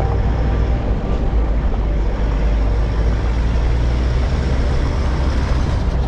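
A moving vehicle: a steady, unbroken low rumble of engine and road noise.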